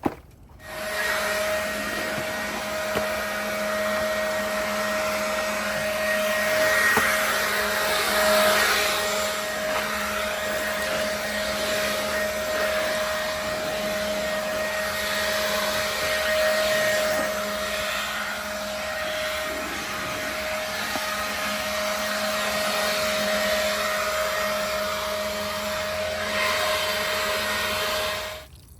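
Motor-driven cleanup machine running steadily, a whine over a rushing hiss. It switches on about a second in and stops abruptly just before the end.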